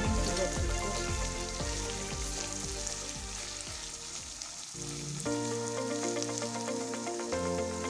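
Shredded chicken sizzling as it fries in a wok and is stirred, with background music of held notes playing over it.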